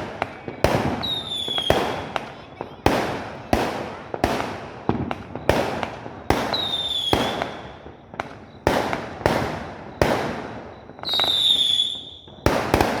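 A 39-shot fireworks cake firing shot after shot, with sharp launch pops coming about one to two a second. Three of the shots whistle briefly as they go up, each whistle dipping slightly in pitch; the last, near the end, is the longest.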